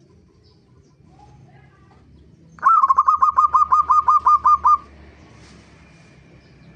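Zebra dove (perkutut) calling: a loud, rapid run of about a dozen short, hooked notes at an even pace, about six a second, lasting roughly two seconds.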